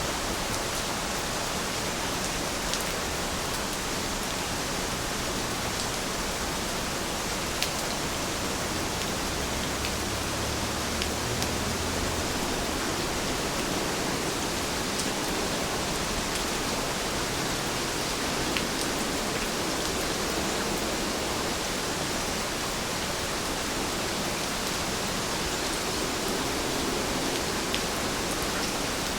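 Steady rain falling, an even hiss with a few faint ticks of single drops here and there.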